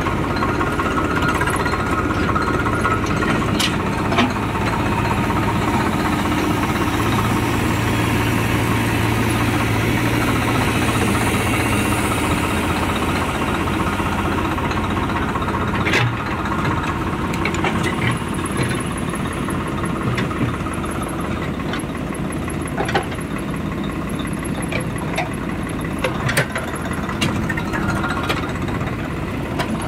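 Diesel engine of a JCB 3DX backhoe loader running steadily at work, with a few sharp knocks now and then, the strongest about halfway through.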